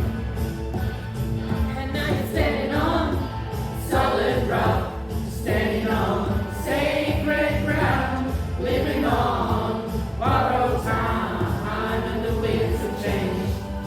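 A choir singing a song, several voices together in held and moving phrases.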